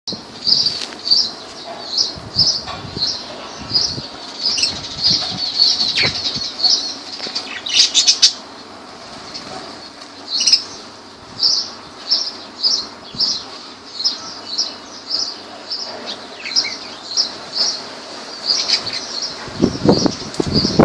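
Lovebirds calling: a shrill, high chirp repeated about twice a second, with a few short pauses. A brief louder burst about eight seconds in and another sound near the end stand out.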